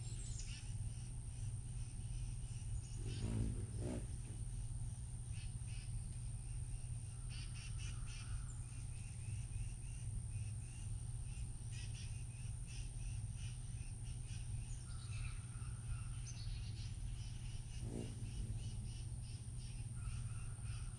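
Small birds chirping in short, repeated high calls over a steady low rumble and a thin, steady high tone. A lower call comes about three seconds in and again near the end.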